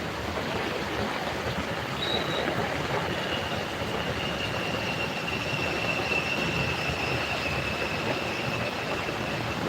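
Heavy rain pouring steadily. A short high whine about two seconds in is followed by a longer, steady high whine that holds for most of the rest.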